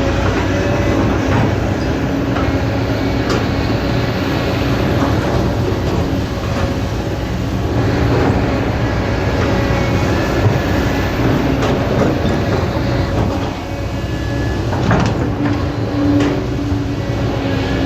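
Kobelco excavator working: its diesel engine runs steadily under a pitched whine, with scattered metallic clanks and knocks.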